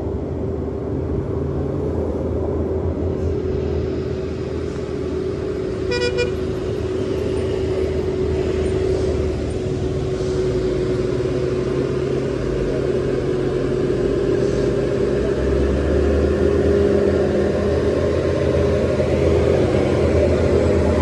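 Heavy truck engine running steadily with a continuous whine, growing slightly louder toward the end, and a short horn toot about six seconds in.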